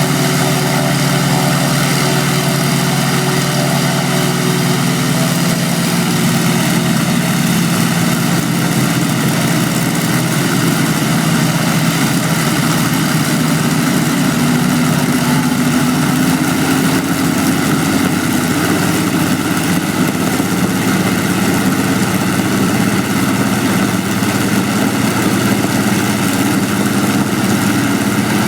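Aeroplane engines running steadily on display, a loud continuous drone with a slight rise in pitch about halfway through.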